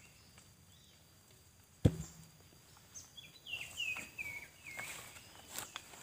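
A bird calling a run of about five short notes, each sliding downward, about three a second, in the middle of quiet forest ambience. A single sharp knock about two seconds in is the loudest sound.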